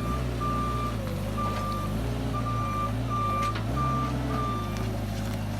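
A truck reversing, its backup alarm beeping about once a second over the engine, which rises and falls in pitch as it is worked.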